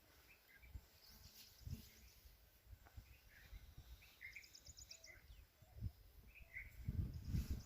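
Weaver birds calling: short, scattered chirps and twice a fast, high, rattling trill of about ten notes a second. A low rumble swells near the end.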